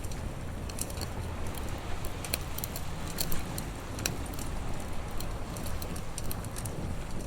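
Wood fire crackling, with irregular sharp pops and snaps over a steady low rush of noise; one pop about three seconds in is louder than the rest.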